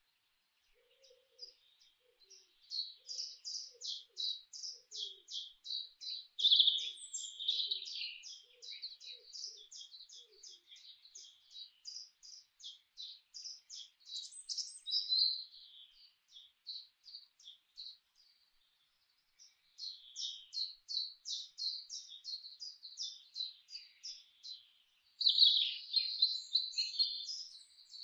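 Small birds chirping in quick runs of short, high notes, about three a second, falling silent for a few seconds past the middle and then starting up again.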